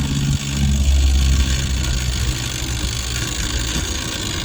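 A motor vehicle engine running at low revs, a steady low hum that swells about half a second in and eases off after about two seconds.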